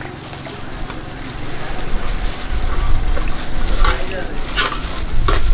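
Indistinct voices over a steady low rumble, with a few short, sharp noises in the second half.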